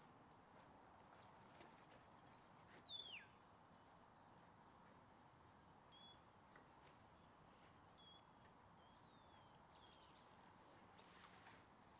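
Faint birds calling in the background: a few thin whistles that fall in pitch, the clearest about three seconds in and again around eight seconds, over a steady low hiss.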